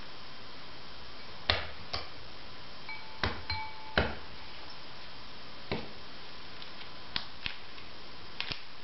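Irregular sharp knocks and clinks of small hard objects, about ten in all, a few ringing briefly.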